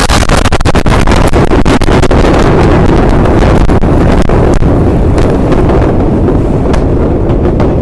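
Blast wave from the Beirut port explosion hitting and overloading the microphone: a loud, continuous rush of wind and rumble full of crackles and pops, easing slightly near the end.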